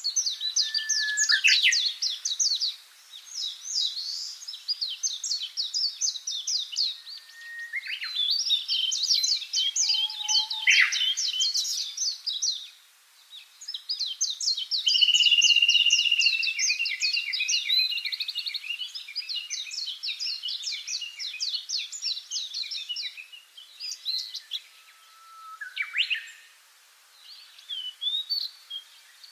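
A songbird singing high-pitched, fast trilled phrases of rapidly repeated notes, with short pauses between phrases and one long held note in the middle.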